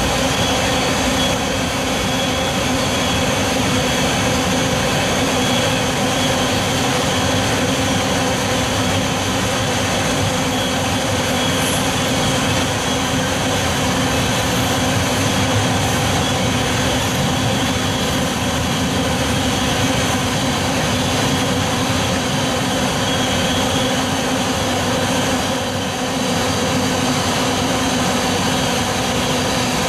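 A train passing steadily at close range, a continuous dense rolling noise with several steady tones running through it.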